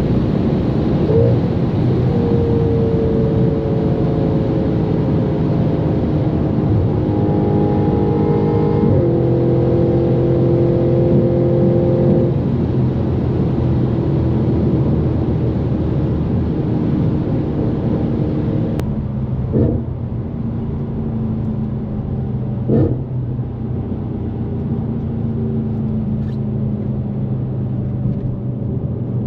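Straight-piped Audi RS5's V8 running at speed, a steady exhaust drone whose pitch sinks slowly, with a change in pitch about nine seconds in. After about nineteen seconds it gets quieter and duller, with a few short thumps.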